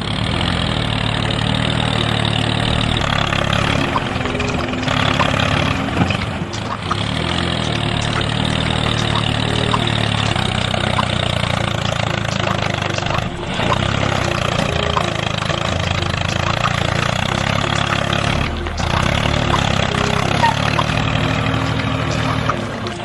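Engine running steadily, with a few brief dips in level.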